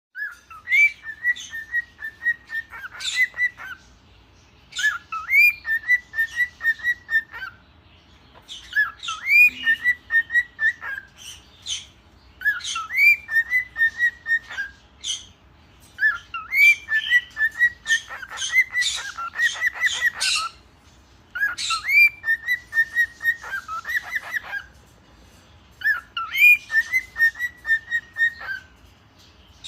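Cinnamon cockatiel singing: a whistled phrase repeated every few seconds, each opening with an upward-sliding note and running into a string of short, even notes. A longer, busier run of rapid notes comes a little past the middle.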